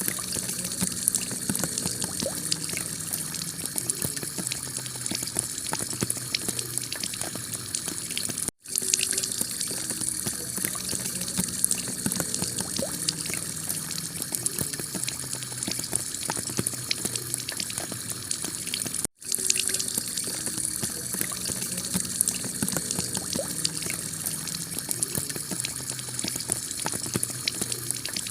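Heavy rain on a clay-tile roof: a steady wash of rain with many small drop ticks. It cuts out for a split second twice, about a third and two-thirds of the way through.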